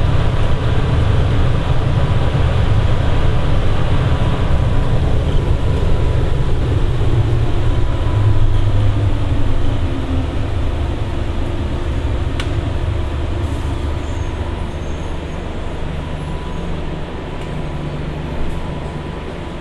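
Inside a driverless airport people-mover train running on its guideway: a steady low rumble with a faint, thin whine. About halfway through the rumble eases as the train slows to a stop at the station.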